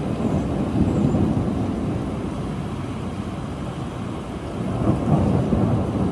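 Thunder rumbling low over steady rain, swelling about a second in and again near the end.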